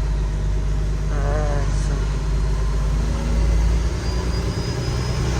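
Cummins X15 diesel engine of a Kenworth T800 truck running steadily at low revs, heard from inside the cab as a low drone whose pitch shifts about four seconds in.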